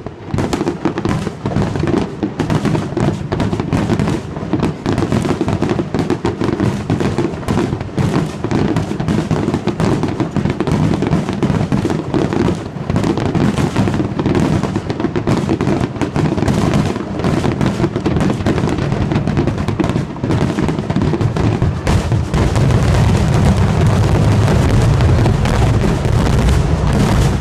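Fireworks finale barrage: a dense, unbroken run of shell bursts and crackling, growing louder and heavier in the low booms near the end.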